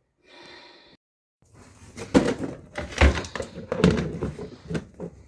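Household clatter: a run of sharp knocks, bumps and clunks of objects being handled and set down, after a brief hiss that cuts off abruptly about a second in.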